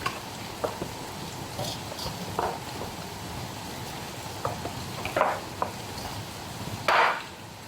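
Hands kneading flour into dough: scattered soft slaps and scrapes over a steady hiss, with a louder scrape near the end.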